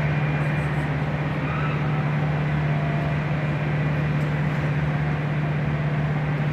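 A steady motor hum with a strong, unchanging low drone.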